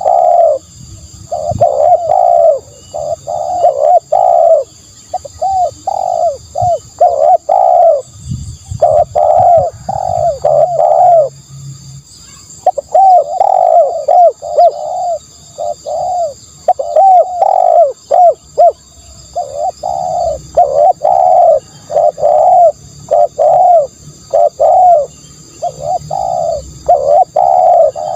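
Spotted doves cooing, short coos following one another almost without a break, with a pause of about a second near the middle; a decoy-call recording. A faint steady high-pitched whine sits behind the calls.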